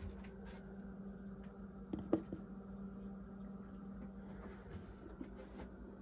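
A steady low hum in a quiet small room, with a few faint handling clicks and rustles, the loudest cluster about two seconds in.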